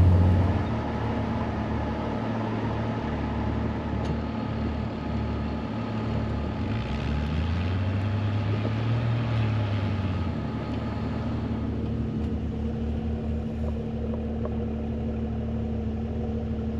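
Jeep Cherokee XJ's engine running under load while pushing through deep snow, revving up about seven seconds in and easing back down a few seconds later.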